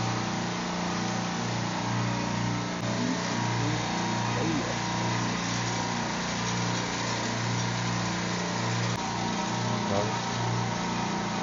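Steady drone of a supermarket refrigeration rack's running compressors, a low hum with a slight pulsing throb over an even machine-room hiss.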